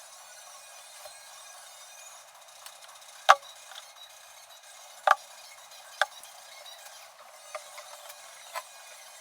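Hand tools and parts clicking and knocking in a few separate sharp strikes. The loudest comes about three seconds in, two more follow a couple of seconds later, and smaller clicks come near the end.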